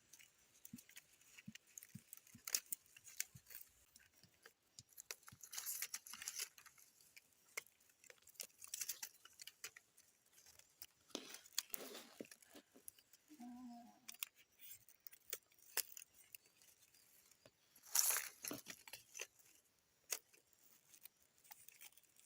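Quiet, irregular small clicks and taps with several short rustling bursts, the loudest about 18 seconds in, and a brief low pitched sound about 13 seconds in.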